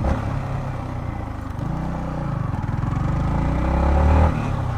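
Yamaha MT-15's single-cylinder engine pulling under throttle, its revs and loudness building over a few seconds, then dropping back near the end.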